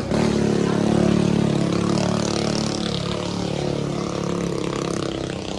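Minibike engine running at a steady speed, loudest about a second in and then slowly fading.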